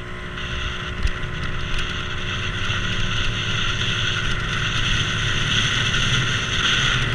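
A vehicle on the move, a steady rush of road and wind noise over a low engine hum.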